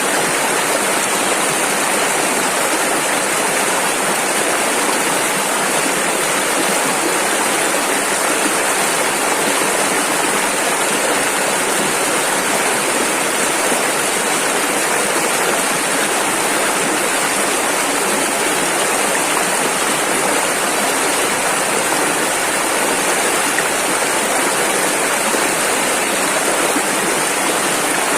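Rushing river: fast water running over rapids in a steady, unbroken rush.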